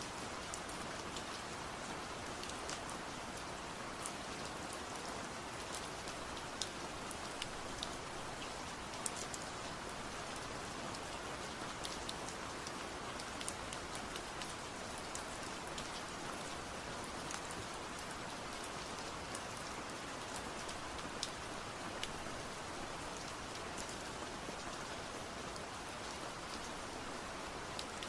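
Steady rain falling, an even hiss dotted with sharp little drop ticks hitting a surface.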